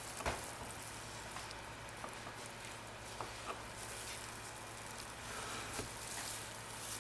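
Knife cutting through a block of melt-and-pour soap: faint scraping with a few light clicks, over a low steady hum.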